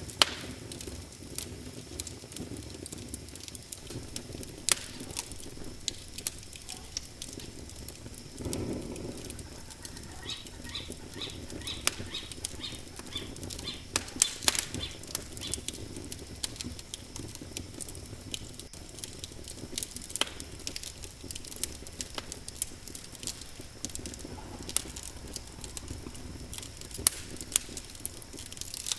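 Wood fire in a fireplace crackling, with sharp irregular pops and snaps over a steady low rush of flame, and a brief louder rush about eight seconds in.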